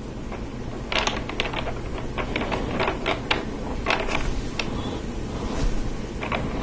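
Small plastic Lego Technic parts clicking and rattling as they are handled, a run of irregular light clicks with a few sharper ones.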